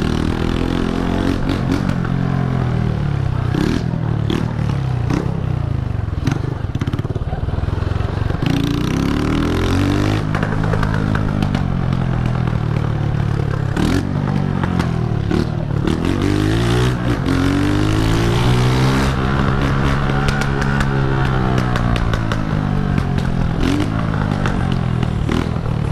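Honda CG125 single-cylinder four-stroke engine running through a straight-through exhaust with no muffler, loud. The revs repeatedly climb and drop as the bike accelerates and eases off, with one longer high hold about two-thirds of the way in.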